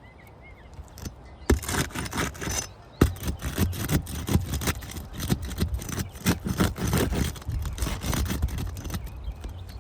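Scraping and crackling of a tool being worked under asphalt roof shingles, a rapid, irregular run of rough scrapes that starts about a second and a half in and eases off near the end.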